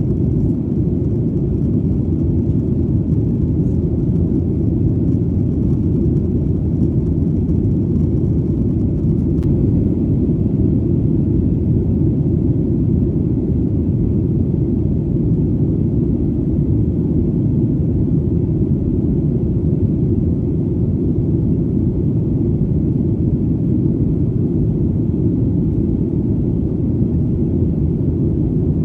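Airplane in flight: a steady, deep engine rumble with no change in pitch or level.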